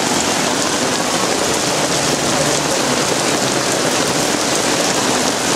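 Heavy rain falling steadily, a dense even hiss of drops splashing on wet pavement.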